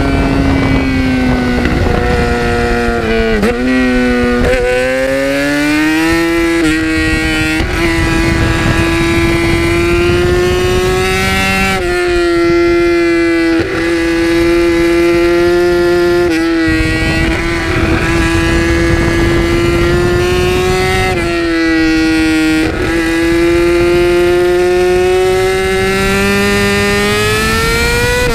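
Yamaha R6 inline-four engine at high revs under hard riding, heard from the tail. The engine note holds high and slowly climbs, with several brief dips and quick recoveries as the rider shifts or rolls off for corners.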